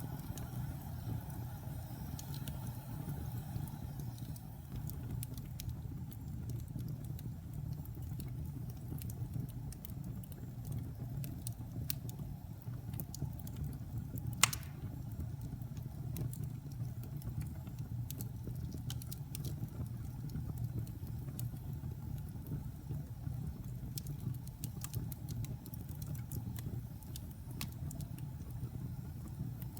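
Wood fire burning in a fireplace: a steady low rumble of flames with scattered small crackles, and one sharp, loud pop about halfway through.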